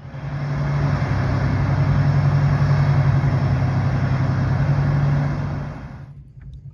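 Towboat diesel engines pushing a barge, a loud steady drone with a strong low hum. It starts abruptly and fades out about five and a half seconds in.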